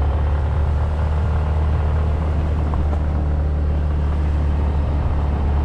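Moped's small engine running steadily while riding along.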